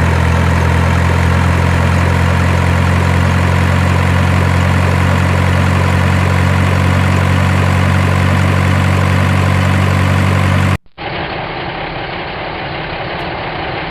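Truck engine idling with a steady low drone. About eleven seconds in it cuts off abruptly, and a quieter, duller engine sound takes over.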